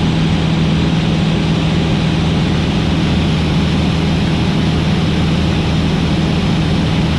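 Van's RV-8 light aircraft in flight, heard from the cockpit: its piston engine and propeller run with a steady drone, level and unchanging.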